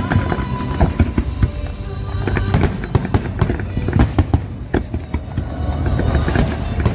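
Fireworks display going off in rapid, irregular bangs and crackles over a low rumble, with music playing.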